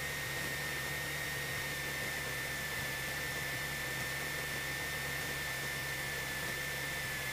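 Steady cabin noise of a Cessna 172SP on its landing approach: engine and airflow hiss with a low hum and a high whine that slowly drops in pitch.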